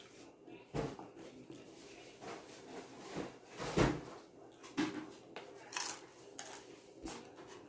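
Irregular clicks, knocks and light rustles of dishes and food being handled at a table, about half a dozen short knocks scattered across a few seconds.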